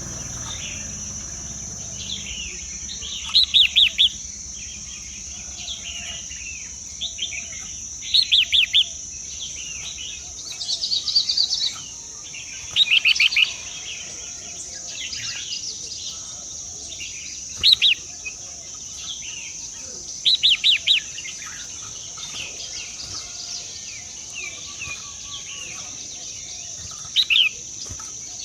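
Small birds chirping in short clusters of quick, falling notes, a burst every four or five seconds, over a steady high-pitched drone.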